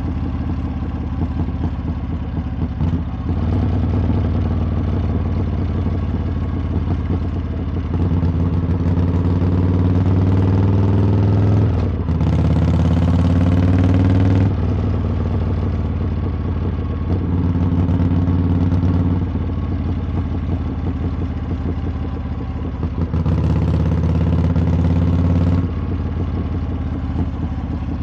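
Harley-Davidson V-twin engine and exhaust under way, the throttle opening and easing off several times. The engine note climbs in pitch through the middle as it accelerates, and rushes of hiss come in about halfway and again near the end.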